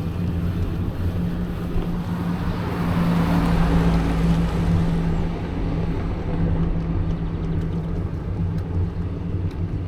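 Riding noise from a bicycle picked up by a handlebar-mounted DJI action camera: a steady low hum and rumble of road and frame vibration mixed with wind on the microphone. The noise swells louder about three seconds in and eases off again.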